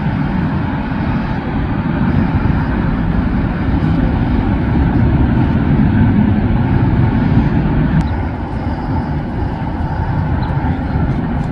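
Jet airliner engine noise, a loud steady rumble that swells to its loudest past the middle and then eases off.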